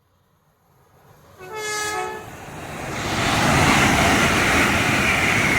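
LNER Azuma high-speed train sounding a short horn blast about a second and a half in, then rushing past at speed, its noise building to a loud steady roar.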